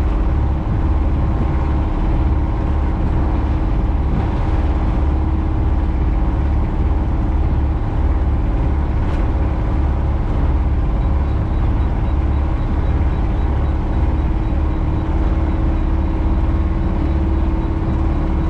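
Sailboat's inboard auxiliary engine running steadily under way, a constant drone with steady tones over a fluttering low rumble of wind on the microphone.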